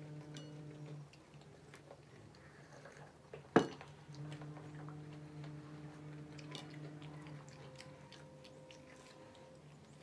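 People chewing and eating samosas by hand, with faint scattered plate and hand clicks. There is one sharp knock or clink about three and a half seconds in, and a steady low hum that drops out twice.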